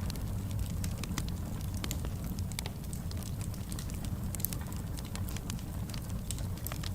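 Wood fire burning in a fireplace, crackling: a steady low rumble of flames with frequent small, sharp pops at irregular intervals.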